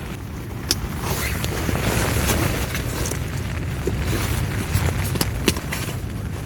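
Steady low rumble of wind with a scattered handful of sharp clicks and rustles as a camping pillow is handled and clipped onto a sleeping mat.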